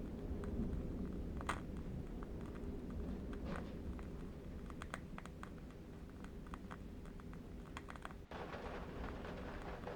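Ambient soundscape of a low, steady wind rumble with faint, scattered crackles from a burning candle wick. About eight seconds in the sound changes abruptly to a hissier texture.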